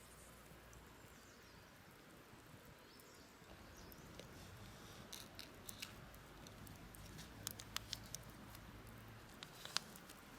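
Quiet background with scattered faint sharp clicks and ticks: a few close together about three-quarters of the way through and the loudest one near the end.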